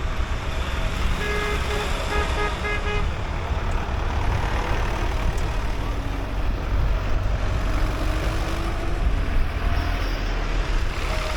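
Deep engine rumble from passing tractors and trucks, with a quick run of short horn toots about a second in.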